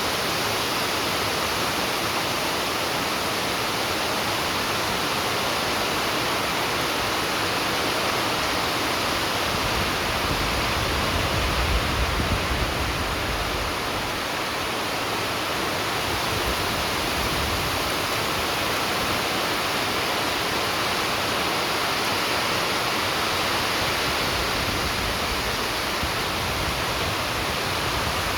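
Heavy rain falling steadily, an even hiss of water. A low rumble swells briefly around the middle.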